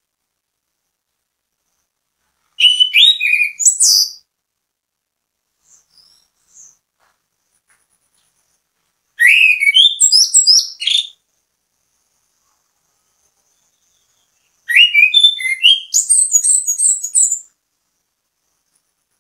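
Chestnut-capped thrush (anis kembang) singing: three bursts of quick, varied high whistled notes, each lasting about two seconds and spaced several seconds apart, with a couple of faint short notes between the first two.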